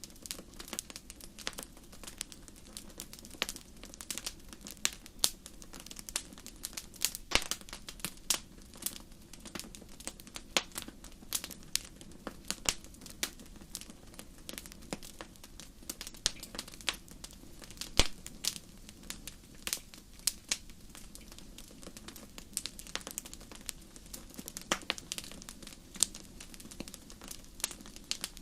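Wood campfire crackling: irregular sharp pops and snaps, one louder pop about eighteen seconds in, over a faint steady low rumble.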